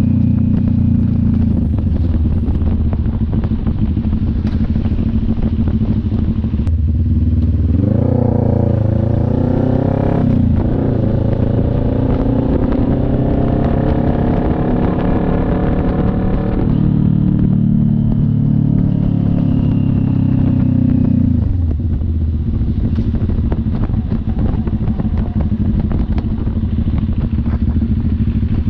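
CF Moto NK400 two-cylinder motorcycle engine running under way. A quarter of the way in the revs climb hard, with a brief break as it shifts gear, then climb again. Past the middle it drops back in two steps to a lower, steady drone.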